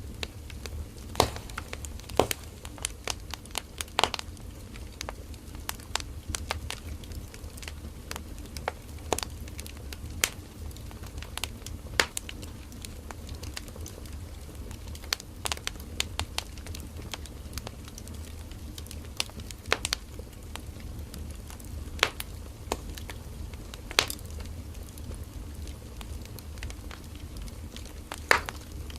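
Firewood burning in a campfire: irregular crackling and sharp pops from the burning logs over a low steady rumble of the flames.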